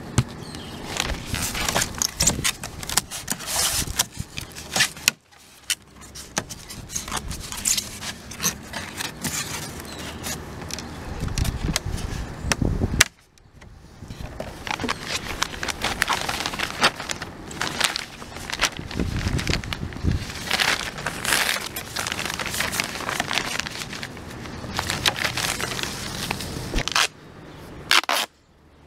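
Heavy plastic bag crinkling and rustling while being handled and taped down, with scattered sharp clicks and scrapes. The sound stops abruptly twice and picks up again.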